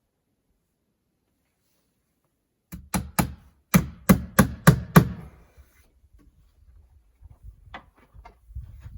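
A hammer striking about eight times, starting about three seconds in: a run of three blows, a short pause, then five more at roughly three a second, as when driving nails.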